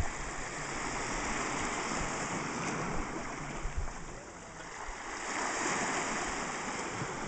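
Sea water washing and rushing, swelling up twice like passing waves.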